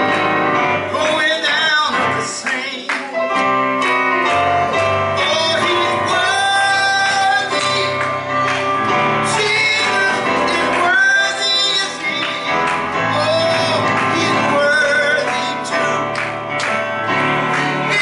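Mixed male and female voices singing with instrumental accompaniment.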